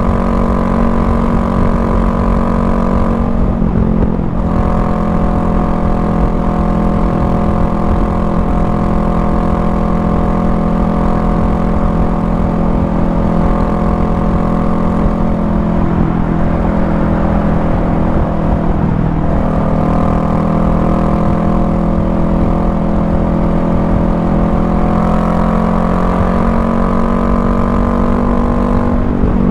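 Honda Rebel 500's parallel-twin engine running steadily under way, with road and wind noise beneath it. Its note shifts a few seconds in and again a couple of times later, stepping up near the end.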